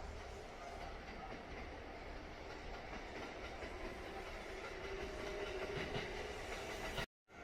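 Narrow-gauge electric train with nose-suspended traction motors running steadily on the rails: a continuous low rumble of wheels with faint steady motor and gear tones.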